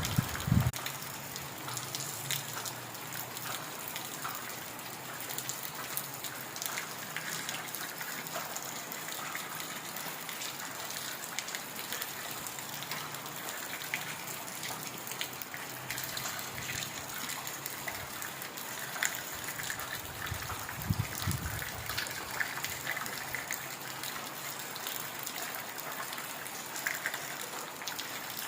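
Heavy rain falling steadily, with many separate drops pattering through the hiss. About two-thirds of the way through there is a brief low rumble.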